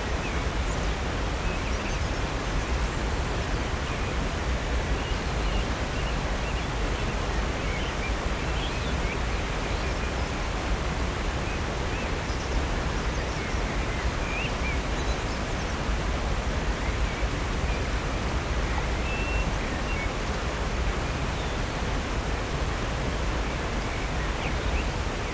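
Upper North Falls, a 65-foot waterfall, rushing steadily into Silver Creek, with faint scattered bird chirps over the water.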